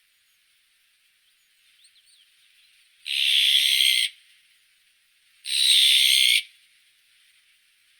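Azure-winged magpie giving two harsh, raspy calls, each about a second long and a little over two seconds apart, with a few faint short chirps before them.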